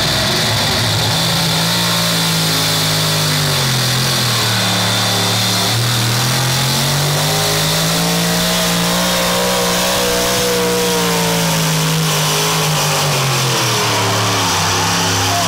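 A pulling vehicle's engine running hard under load during a pull. Its pitch dips about four seconds in, climbs back by about ten seconds, then sags again near the end.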